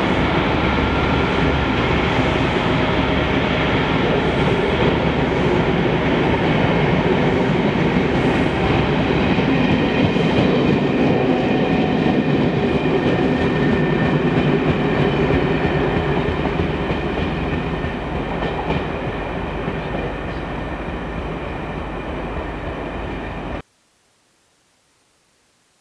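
Charter train hauled by a Class 57 diesel locomotive pulling out of the station, the carriages' wheels rumbling and clicking over the rail joints. It slowly fades as the train draws away, then cuts off suddenly near the end.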